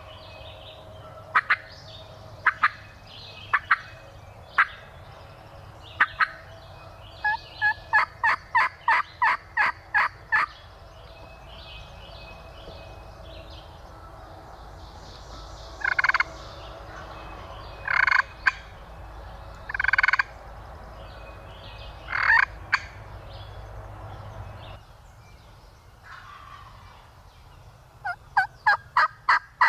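Turkey calling: scattered sharp yelps, then a quick, evenly spaced run of about a dozen yelps, then four longer, louder calls about two seconds apart, and another quick run of yelps near the end.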